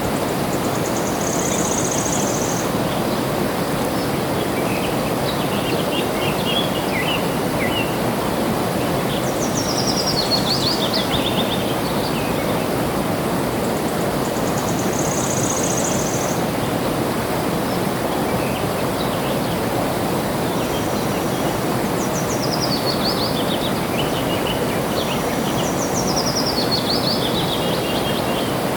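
Steady rush of flowing water with birds singing over it: high buzzy notes, scattered chirps and several quick trills that fall in pitch, recurring every few seconds.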